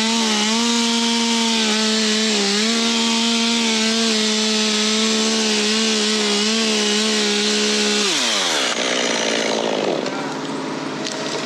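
Chainsaw revved up and held at full throttle through a cut for about eight seconds, its pitch dipping briefly now and then as the bar loads in the wood. It then drops back off throttle, followed by rustling and crackling noise.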